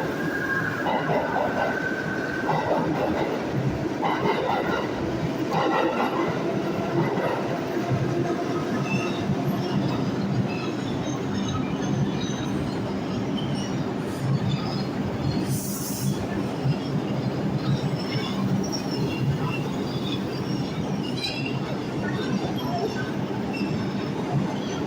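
New York City subway train running, a loud steady rumble with wheels squealing on the rails in the first couple of seconds and a low steady hum from about halfway through.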